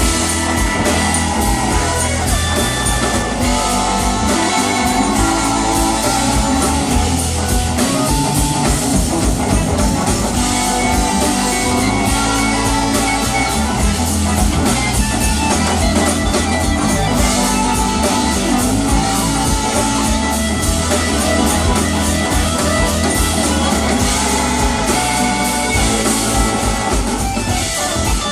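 Live band playing rock with electric guitar, bass and drum kit, heard as a concert recording.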